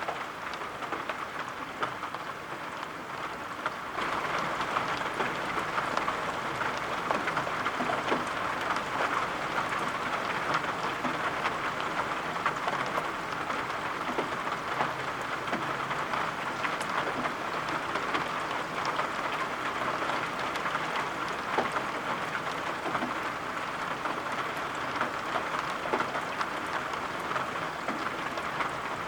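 Steady rain, a dense even hiss dotted with individual drops tapping, growing louder about four seconds in.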